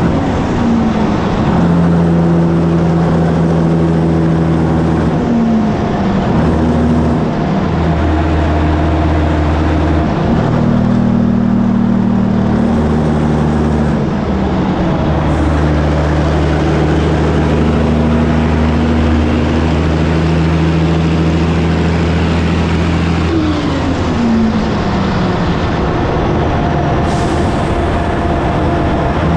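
Diesel engine of a 1984 Peterbilt 362 cabover truck running on the road, its pitch stepping up and down several times as it shifts gears and changes speed.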